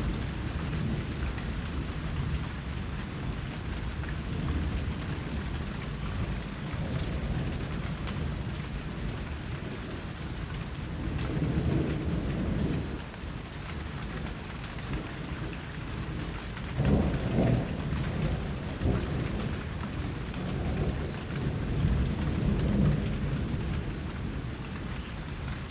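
Steady rainfall, a continuous patter, with low rolls of distant thunder swelling up around the middle and twice more in the second half.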